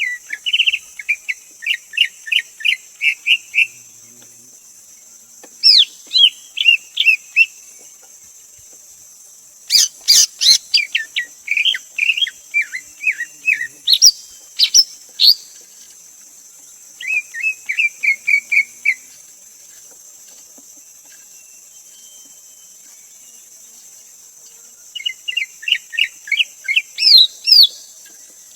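Greater green leafbird calling: five bursts of quick, clear whistled notes repeated several times a second, with pauses of a few seconds between them, over a steady high hiss.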